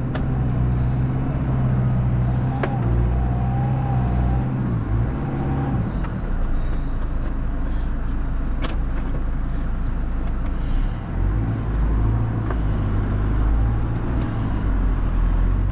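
Four-wheel-drive vehicle's engine running steadily off-road, its pitch changing little, with a few sharp knocks from the vehicle.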